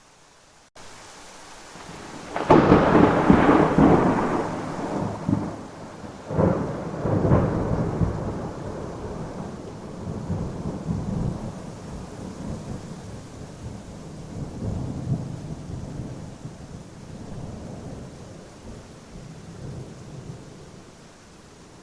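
Thunder over steady rain: a loud crack about two and a half seconds in, a second peal a few seconds later, then a long rumble that slowly dies away.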